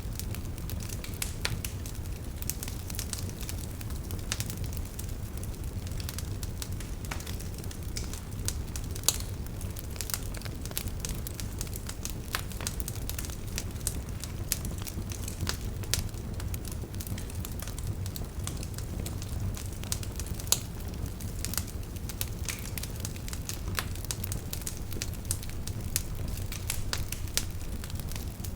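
Campfire burning, with a steady low rumble of flames and irregular crackles and pops from the burning wood, a few of them louder.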